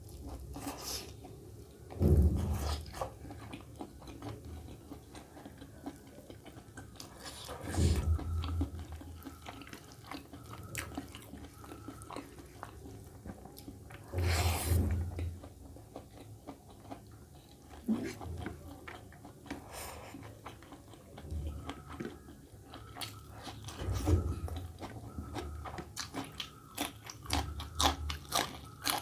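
A person eating close to the microphone: wet chewing and biting with sharp crunches and mouth clicks, broken several times by louder, deeper surges.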